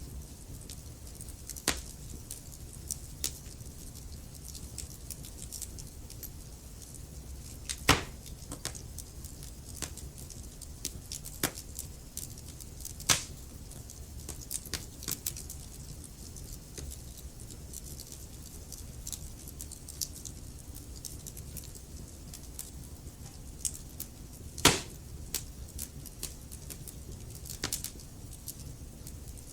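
Wood fire crackling in a fireplace: frequent small snaps and pops over a steady low rumble of the flames, with a few louder pops, the loudest about eight seconds in and again about twenty-five seconds in.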